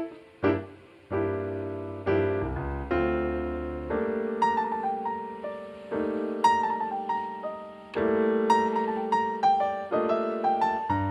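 Piano music: chords struck every second or two, each ringing and fading away, with a higher melody above them.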